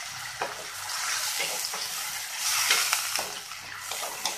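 Spice paste of onion, garlic and ginger sizzling in hot oil with a splash of water that keeps it from catching and burning, while a wooden spatula stirs it and scrapes and knocks against the pan several times.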